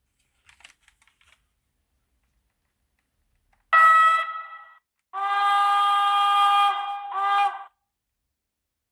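Model locomotive sound decoder (Zimo MX645 in a Roco DB V200) playing a diesel locomotive horn through its small speakers: a short blast about 4 s in, then a longer blast ending in a short second note. A few faint clicks come before it.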